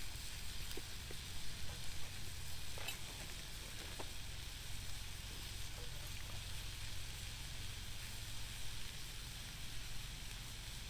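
Hot dogs sizzling in a frying pan, a steady hiss with a few faint crackles; the pan is hot enough to smoke.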